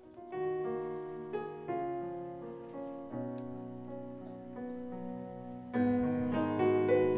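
Piano introduction to a gospel song, slow sustained chords struck about once a second, swelling louder near the end.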